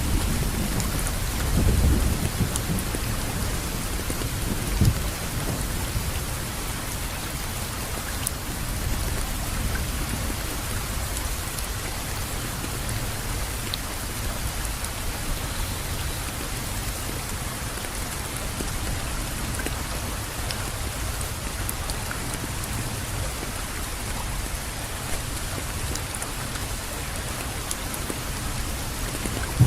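Steady rain falling, an even hiss with scattered drop ticks. A low rumble of thunder in the first few seconds dies away.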